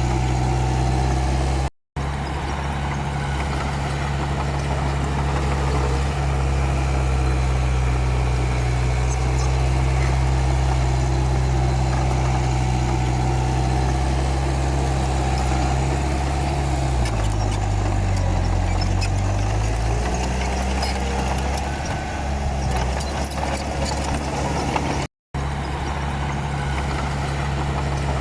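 Komatsu D31P bulldozer's diesel engine running steadily under work. Its note dips in pitch for a few seconds about two-thirds of the way through, then recovers. The sound cuts out completely twice for a moment.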